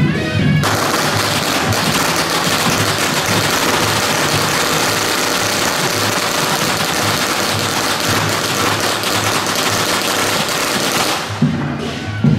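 A long string of firecrackers crackling in a rapid, continuous barrage for about ten seconds. It drowns out the procession's band music, which comes back near the end.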